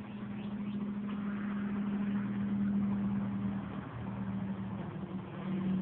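Steady low hum of a running engine, growing louder over the first three seconds and easing off a little after.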